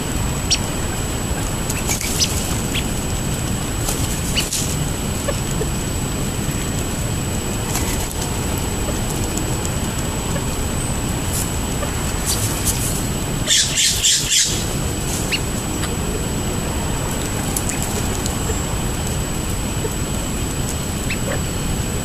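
Short bird calls over a steady low rumble, with a burst of harsh, rapidly repeated squawks about two-thirds of the way through.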